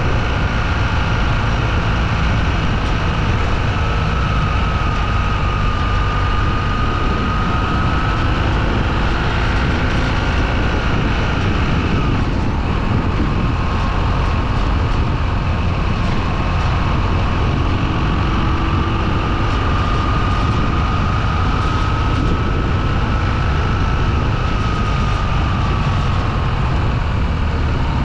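Motorcycle riding at a steady speed: the engine runs under a constant rush of wind on the microphone, with a faint whine that wavers slowly up and down in pitch.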